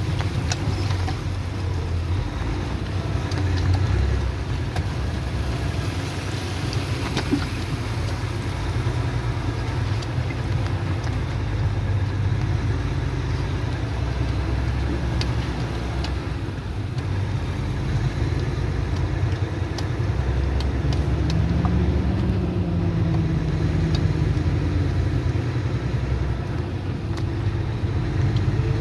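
Motor vehicle engine running steadily while driving, a continuous low rumble with scattered light clicks and rattles.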